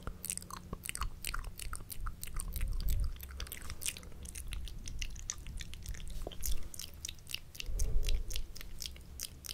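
ASMR mouth sounds: a quick, irregular run of wet clicks and smacks from the lips and tongue.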